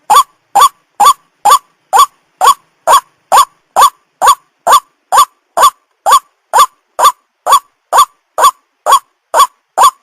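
White-breasted waterhen (ruak-ruak) giving its repeated call, a recording played as a hunting lure. Short, loud, rising notes about two a second, each alike, in an unbroken even rhythm.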